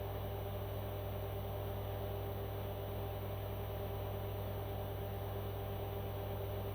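A steady, unchanging low hum with no breaks.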